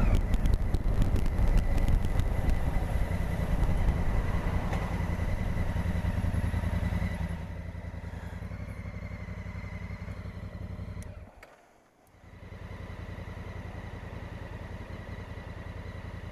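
Honda Africa Twin's parallel-twin engine running with wind rush as the bike rides along, dropping to a quieter steady idle about seven seconds in. The sound briefly falls away almost to nothing around twelve seconds in, then the steady idle returns.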